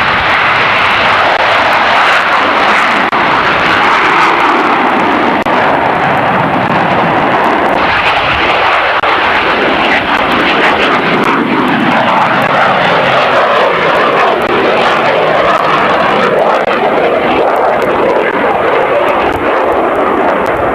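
Loud, continuous aircraft engine noise that swells and eases slowly over the whole stretch.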